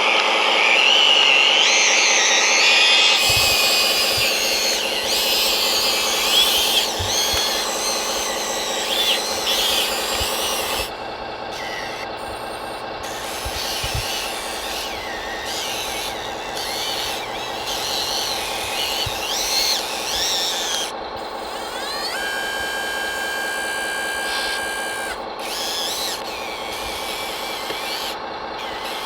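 Electric motors and drives of radio-controlled model machines running: a steady hum with higher whines that rise and fall in pitch as they change speed.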